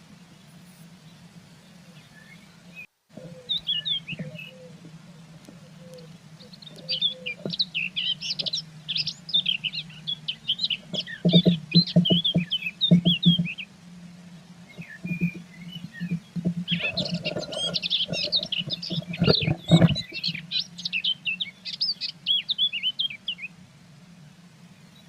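Small birds chirping rapidly and high in two long bursts, heard from inside a nest box, with clusters of knocks and scratching in the box during each burst. A steady low hum runs underneath.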